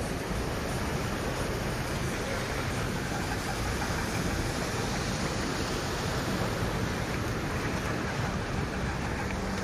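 Heavy rain pouring steadily, a dense even hiss of water.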